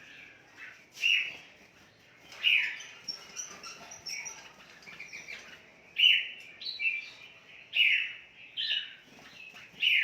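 Caged red-whiskered bulbuls chirping and calling, with a handful of louder calls over a constant chatter of smaller chirps.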